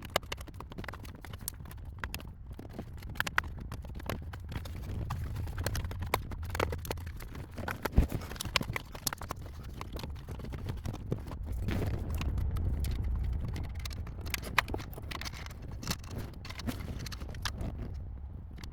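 Irregular clicks, knocks and clatter of hands and tools taking apart and refitting a car's dash panel, over a low rumble.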